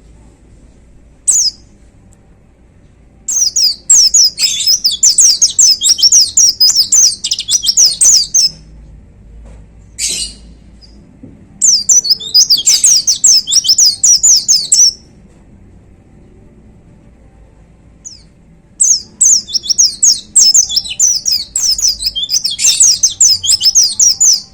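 White-eye (pleci) singing in full song: three long bouts of rapid, high, twittering notes, each several seconds long, separated by short single calls.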